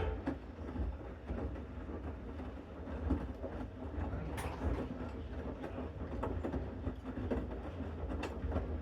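Bosch Series 6 front-loading washing machine in its main wash: the drum turning with a steady low rumble while the laundry tumbles, with scattered small clicks and knocks.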